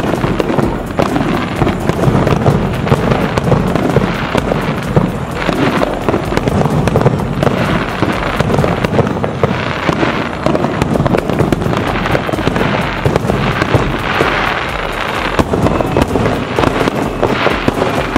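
Aerial firework shells bursting in a rapid, unbroken barrage of booms and crackles.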